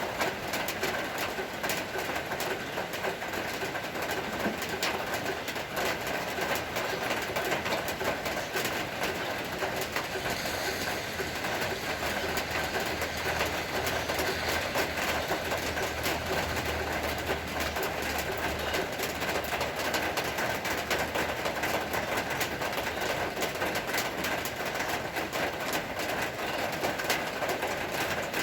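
Steady rain falling, a dense patter of drops without a break. A low hum sits under it for several seconds from about twelve seconds in.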